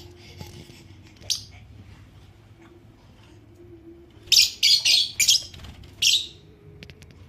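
Blue Fischer's lovebird chirping: one short chirp about a second in, then a quick run of sharp high chirps from about four to five and a half seconds and another near six seconds.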